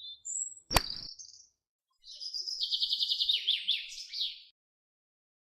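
High-pitched bird chirps, then a sharp click a little under a second in, followed by a rapid trill of chirps lasting about two and a half seconds that stops abruptly.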